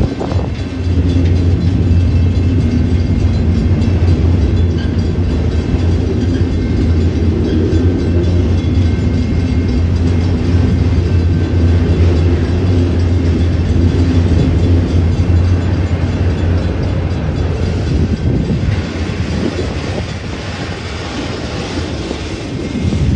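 Union Pacific autorack freight cars rolling past, a steady low rumble of steel wheels on rail with clicking over the rail joints. It eases a little about three quarters of the way through and swells again near the end.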